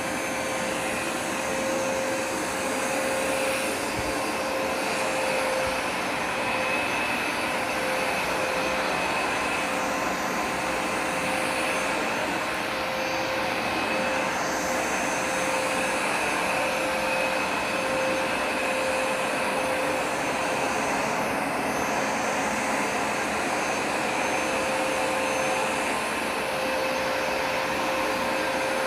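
Hoover Smartwash Pet automatic carpet cleaner running steadily while cleaning carpet: constant suction noise with a steady pitched tone over it.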